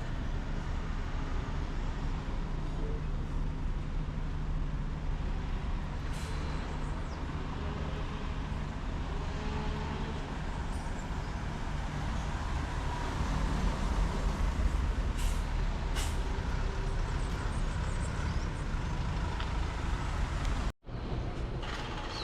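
City street traffic: a heavy diesel vehicle's engine running with a steady low rumble, over general traffic noise. The sound cuts out briefly near the end.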